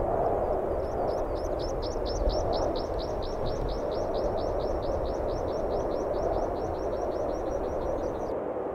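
A small bird singing a long trill of quick, thin, down-slurred notes, about six a second, which stops abruptly near the end. Beneath it runs a steady rushing noise.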